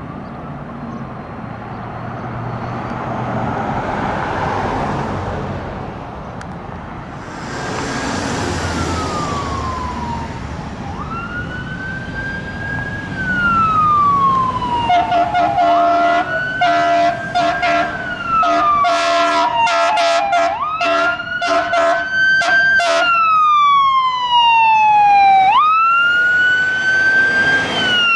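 Fire apparatus siren wailing, each cycle jumping up quickly and then falling slowly, repeating about every five seconds, after a few seconds of passing traffic. From about halfway, rapid short horn blasts sound over the siren.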